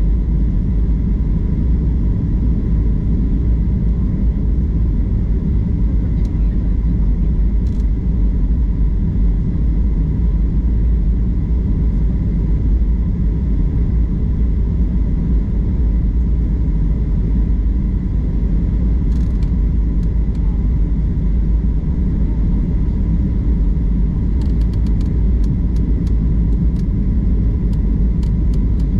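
Airliner cabin noise: a steady, loud low rumble of engines and airflow, with a few faint clicks near the end.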